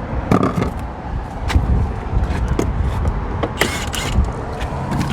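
Clicks, creaks and a short scrape of car interior parts being handled and pried open, over a low rumble.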